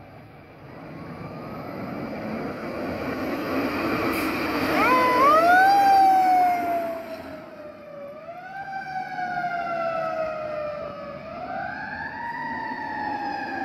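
Fire engine (2017 E-One Cyclone II) coming closer and passing on a call, loudest near the middle. Its siren winds up quickly and then falls slowly in pitch, three times over.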